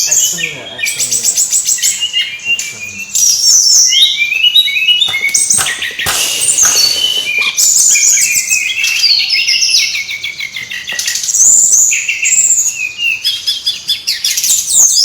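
Brown-chested jungle flycatcher (SRDC) singing busily: a dense, rapid stream of high chirps, trills and quick rising and falling notes, with only short pauses.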